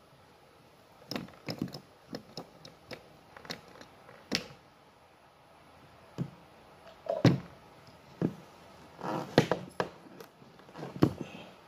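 Irregular short knocks and clicks of PVC pipe fittings being handled and pushed together, with the loudest knocks about seven and nine and a half seconds in.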